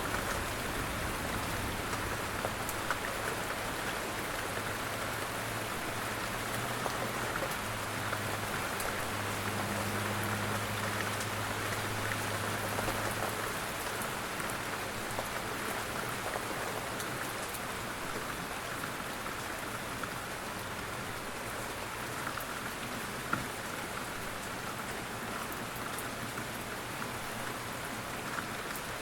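Steady gentle rain falling: an even hiss with many small, sharp drop ticks and one louder drop about three-quarters of the way through. A faint low hum sits underneath.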